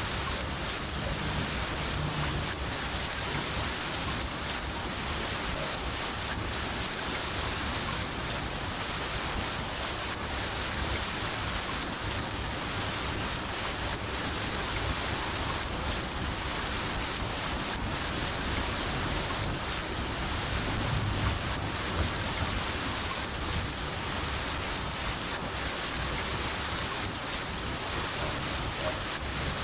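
A cricket chirping in a steady rhythm of about three chirps a second, pausing briefly twice, over steady rain. Faint low rumbles of distant thunder sound now and then.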